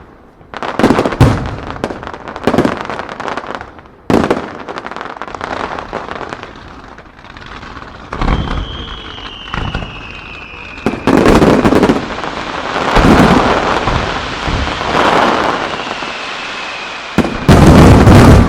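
Aerial fireworks shells bursting in quick succession, each bang trailing off in echoing rumble and crackle. A high whistle glides slowly down in pitch through the second half, and the loudest volley comes near the end.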